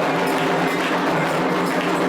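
Candomblé ritual music: dense, steady percussion of hand drums with a struck bell or wood-block-like beat keeping time.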